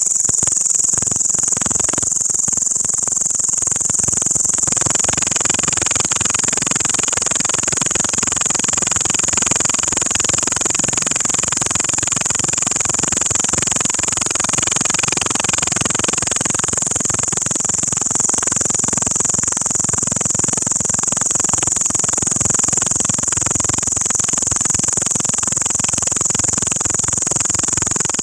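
An insect, called a locust, calling at night with a continuous high-pitched buzz that holds steady without a break.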